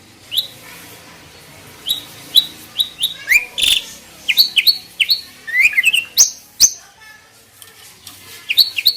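Starlings (jalak) calling: a rapid, irregular run of short, sharp chirps and whistles, many sliding quickly up or down in pitch, mixed with a few sharp clicks, busiest in the middle of the stretch.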